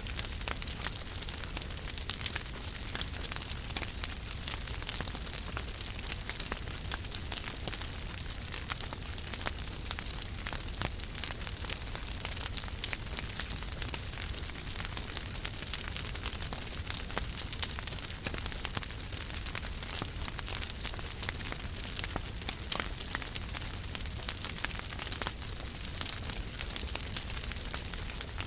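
Wood fire burning in a fireplace: a steady hiss and low rumble with frequent small crackles and pops scattered throughout.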